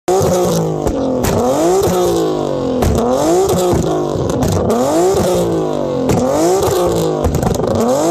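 Infiniti G sedan's V6 revved hard again and again while parked, its pitch climbing and dropping in quick succession, with sharp pops between the blips.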